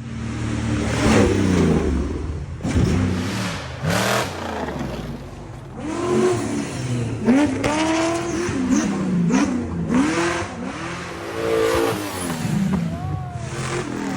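Off-road prerunner truck engine revving hard. Its pitch rises and falls over and over as the throttle is worked on and off, with a few sharp cracks among the revs.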